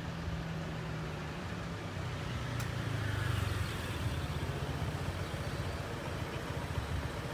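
A road vehicle's engine running close by, as a low steady hum that swells to its loudest about three seconds in.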